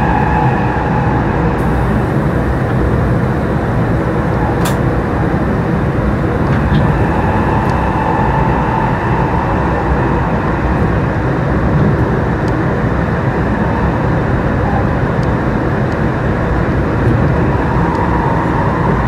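Passenger train running, heard from inside a carriage: a steady, loud rumble of wheels on rail, with faint humming tones that drift a little in pitch and a few light clicks.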